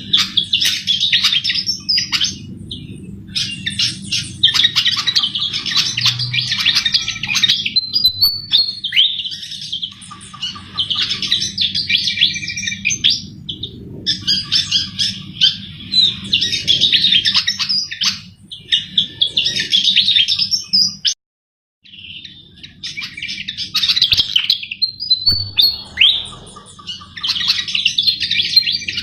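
Sikatan (flycatcher) singing actively, in rapid, twittering phrases of one to three seconds separated by short pauses, over a steady low hum. The sound cuts out briefly about three-quarters of the way through.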